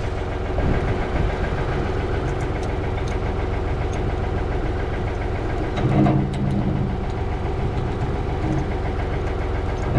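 Ford 555 backhoe loader's diesel engine running steadily, with a brief louder swell about six seconds in.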